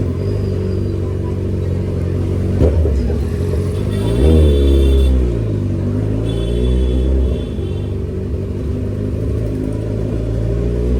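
Kawasaki Ninja motorcycle idling through an aftermarket Austin Racing exhaust. About four seconds in there is one quick throttle blip that rises and falls back to idle.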